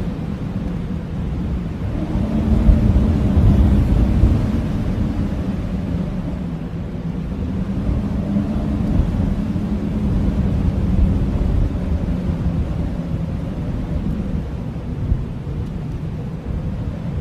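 Blizzard wind howling, a low rumbling rush with a wavering moaning tone, swelling about two seconds in and then easing.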